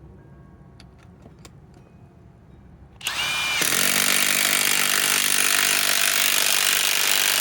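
Bosch GDS18V-330C cordless impact wrench spinning up about three seconds in, then hammering steadily on a large lag screw in wood. The lag doesn't go in: the wrench, on its 4 Ah battery, can't drive it.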